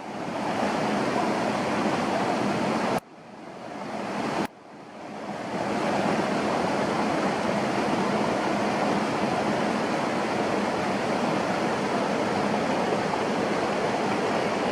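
Steady rushing water noise. It drops out suddenly twice, about three and four and a half seconds in, and swells back each time.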